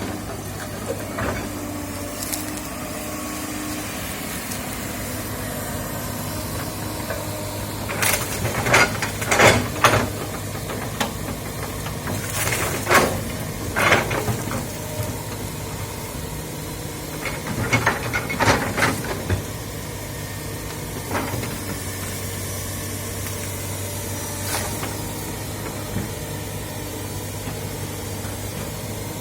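Komatsu excavator's diesel engine running steadily, with clusters of sharp cracks and knocks in the middle stretch.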